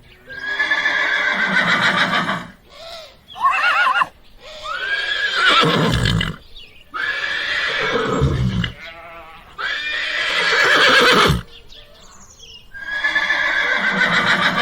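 Horse neighing over and over: about six whinnies, each a second or two long, shaking and falling in pitch, with short pauses between them.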